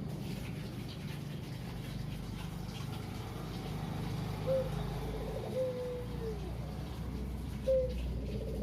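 Puter dove cooing twice. Each phrase is a short note followed by a longer coo that falls in pitch at its end, over a steady low hum.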